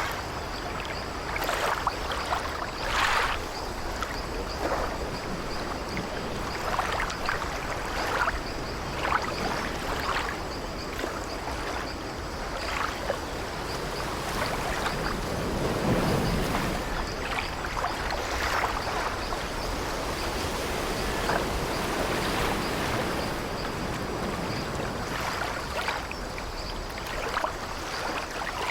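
Steady wash of sea waves with the old wooden ship's timbers creaking now and then. A bigger surge of water comes about halfway through.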